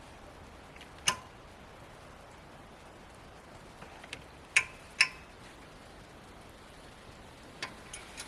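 Sharp metallic clinks and knocks from hand work on a truck snowplow's mounting hardware, pins and brackets being handled: one loud clank about a second in, two more close together midway, and lighter ticks near the end, over a steady hiss.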